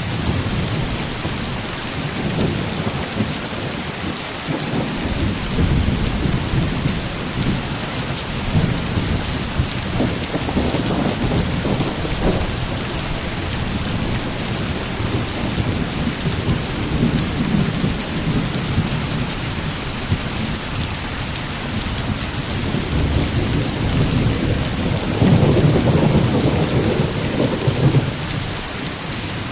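Heavy rain falling steadily, with rolling thunder that swells and fades several times; the loudest rumble comes about 25 seconds in.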